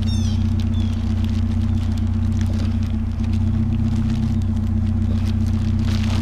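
Vehicle engine idling steadily, with a low hum and light scattered clicks and rattles over it; a short high squeak sounds right at the start.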